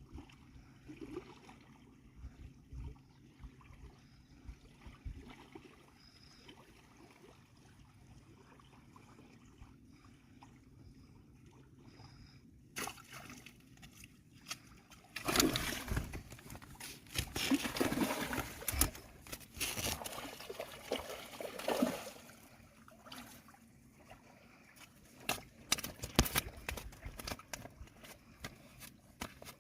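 Water splashing and sloshing in irregular bursts, faint for the first several seconds and louder in the second half.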